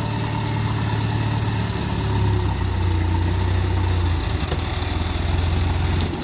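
Dump truck engine running steadily, deep and low.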